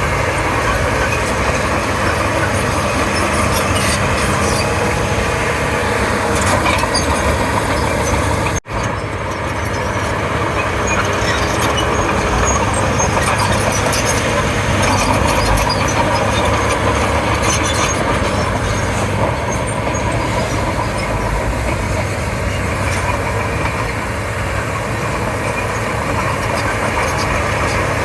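Komatsu D31P bulldozer's diesel engine running steadily under work, with scattered small clicks and clanks over the drone. The sound cuts out for an instant about nine seconds in, then carries on.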